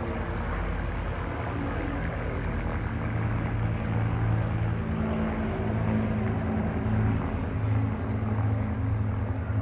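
Piston aero engine of a Battle of Britain Memorial Flight warbird running, a steady low drone with a rapid pulsing beat that grows louder and swells in waves from about three seconds in.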